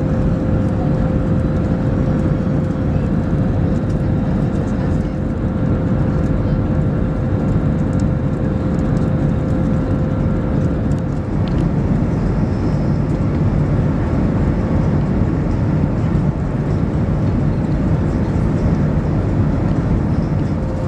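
Steady cabin noise of an Airbus A321neo airliner: an even low rush with a thin constant hum running through it.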